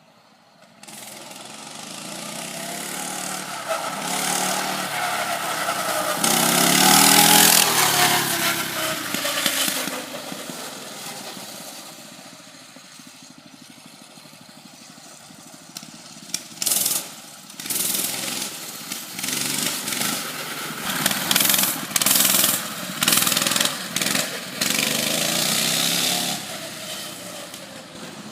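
Coleman CT200U mini bike's 196cc single-cylinder four-stroke engine being ridden: it revs up to a peak about seven seconds in and falls away, then runs in a string of short throttle surges, rising and dropping again and again, in the second half.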